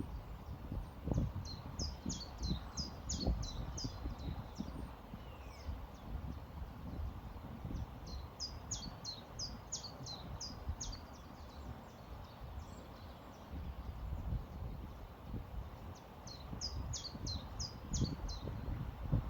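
A songbird singing three short phrases of rapid, high, falling notes, one about every seven seconds, over a low, uneven rushing background.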